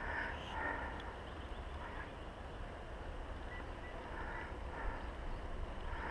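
Short harsh bird calls, mostly in pairs about half a second apart, heard three times over a low steady rumble.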